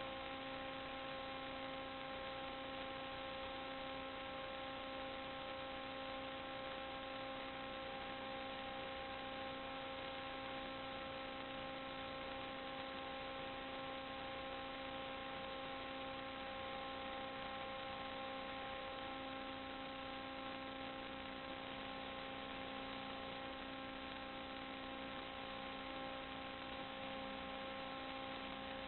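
Steady electrical hum over a constant hiss: several steady tones that never change, with no other events.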